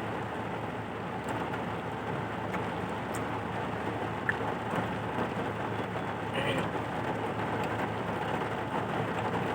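Heavy rain falling steadily, an even hiss with a few faint ticks of drops.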